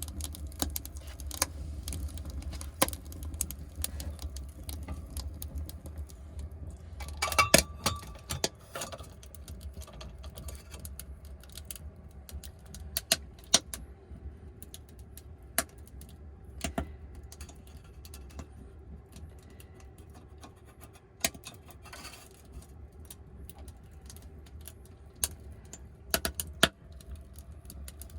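Small load of firewood burning in an ondol firebox, crackling with irregular sharp pops, a quick run of them about seven seconds in, over a low rumble that eases off after about ten seconds.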